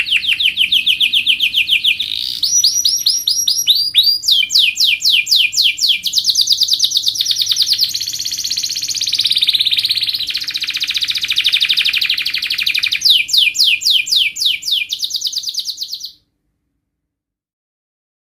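Domestic canary singing a long song of fast rolling trills, each phrase pitched differently and changing every couple of seconds. The song cuts off abruptly about 16 seconds in.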